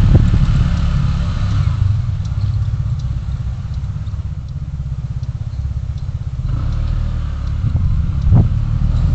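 Low, steady rumble of a road vehicle on the move, engine and road noise together. It eases a little midway and swells again near the end.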